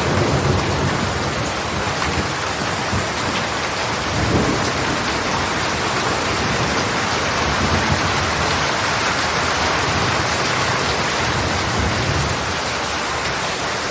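Heavy rain falling steadily, with low rolls of thunder rumbling underneath, swelling near the start, about four seconds in and again near the end.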